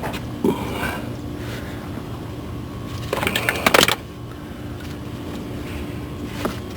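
Hand ratchet clicking in a quick run for about a second around the middle, with a few single metallic clicks before and after, as the starter mounting bolts are worked. A steady low hum runs underneath throughout.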